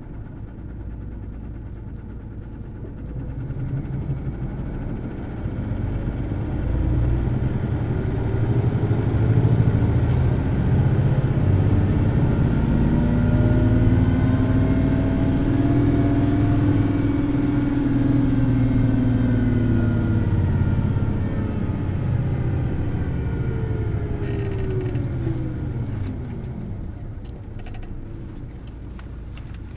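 Hino Blue Ribbon City Hybrid bus heard from inside the cabin as it pulls away. The hybrid drivetrain's engine note and a thin high whine climb in pitch and loudness over several seconds, hold high in the revs, then fall away as the bus eases off. A few light clicks come near the end.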